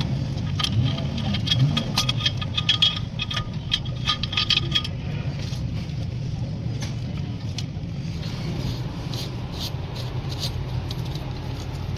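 Suzuki Cultus car engine running steadily, with a dense metallic clicking rattle over the first five seconds that then thins to a few scattered clicks.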